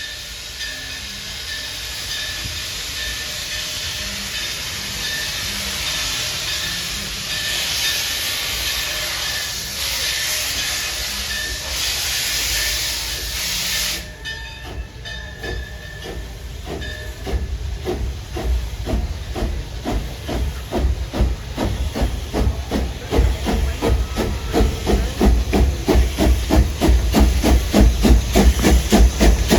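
Steam locomotive letting off a steady hiss of steam that cuts off suddenly about halfway through. Then its exhaust starts chuffing in a regular beat that quickens and grows louder as the train gets under way.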